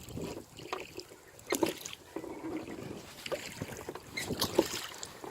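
Rowboat being rowed: wooden oars clunking and knocking in their rowlocks, with splashing between strokes and two louder clunks about one and a half seconds in and near the end.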